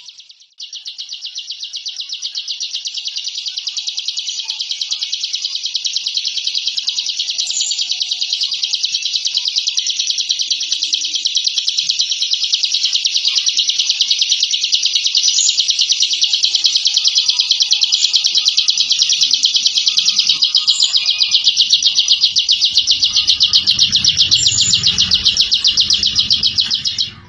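A ciblek (prinia) giving a long, dense 'ngebren' call: one unbroken, high-pitched, very rapid buzzing trill. It breaks off briefly just after the start, restarts, runs on and stops abruptly near the end.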